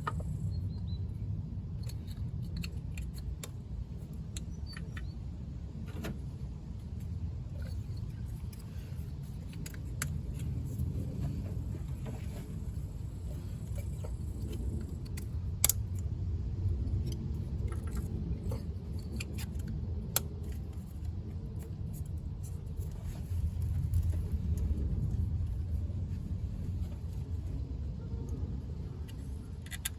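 Irregular metallic clicks and clinks of hand tools at work under the bonnet during a spark plug change, over a steady low rumble.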